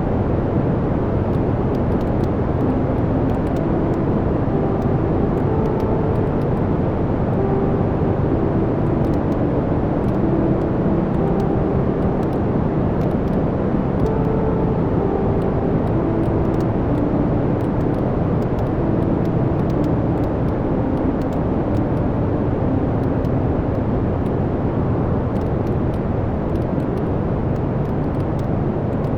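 Wood fire burning in a fireplace: a steady low rumble of flames with many small, scattered crackles and pops from the logs.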